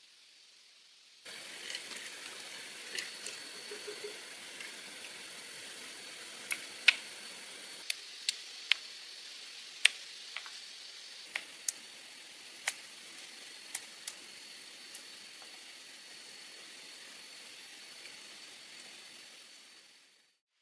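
Wood fire crackling, with sharp irregular pops over a steady hiss and a faint steady high tone.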